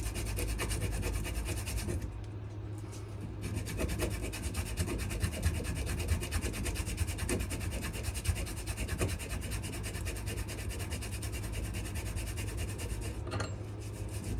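Sandpaper rubbing back and forth on a wooden knife handle (wenge and maple), steady hand sanding with a short pause about two seconds in and again near the end.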